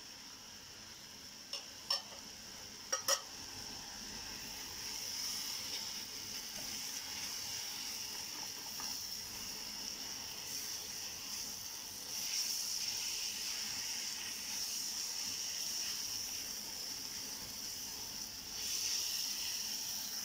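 Sliced onions and chopped tomatoes sizzling in a frying pan as they are stirred with a wooden spatula, with a few sharp clicks about two to three seconds in. The sizzle grows louder as the stirring goes on.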